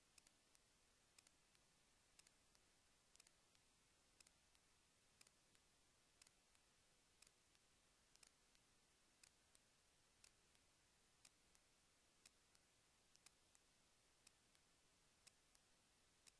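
Near silence with faint, sharp clicks at an even pace of about one a second.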